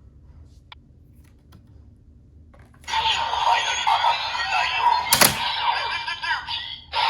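Bandai CSM Decadriver ver.2 toy transformation belt: a few faint clicks from handling the belt, then about three seconds in it plays loud electronic sound effects with music from its speaker. A sharp plastic click comes just past five seconds, and the sound breaks off briefly near the end before starting again.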